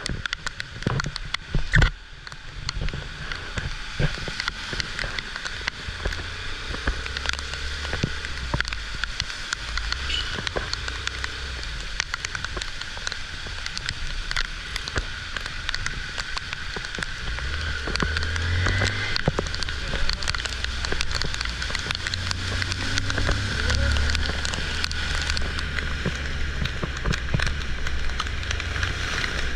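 Heavy rain falling, with many sharp drop impacts throughout and a low rumble beneath it that grows stronger from about halfway.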